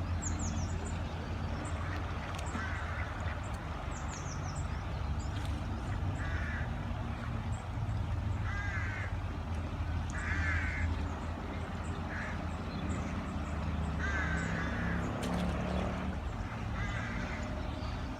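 Short harsh bird calls repeating about every two seconds over a steady low rumble. A small bird twitters briefly at the start and again about four seconds in.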